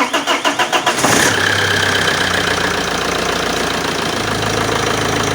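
Alfa Romeo common-rail diesel engine cranking on the starter with rapid, even pulses, catching about a second in and settling into a steady diesel idle. It starts readily after its high-pressure fuel pump has been rebuilt and the fuel system primed.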